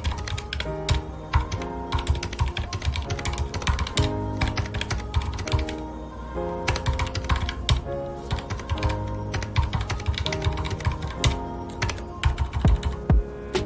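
Typing on a mechanical keyboard with linear red switches: rapid, irregular keystrokes that thin out briefly about halfway through. Soft background music with sustained notes plays underneath.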